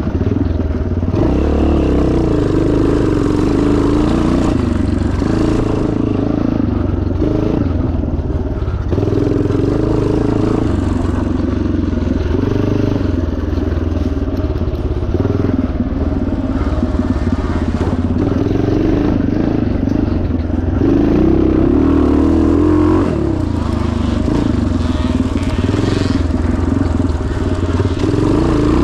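1977 Yamaha TT500's single-cylinder four-stroke engine running under load off-road, its revs rising and falling again and again with the throttle.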